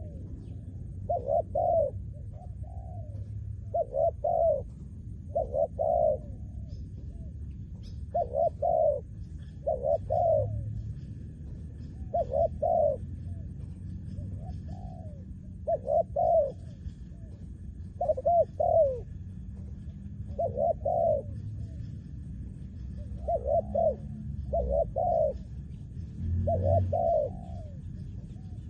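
Spotted dove cooing over and over, short phrases of two or three coos about every two seconds, over a steady low rumble.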